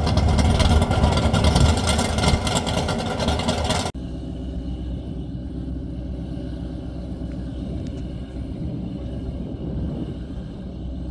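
Loud vehicle engine noise with a strong low rumble and a hiss, cutting off abruptly about four seconds in to a quieter, steady low rumble.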